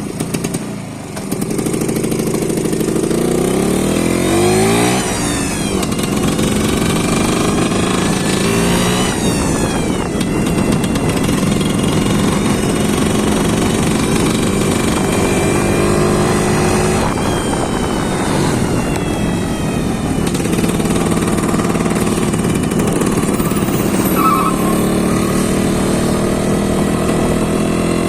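Engine running on a test run, revved up twice in the first ten seconds and then held at a steady speed.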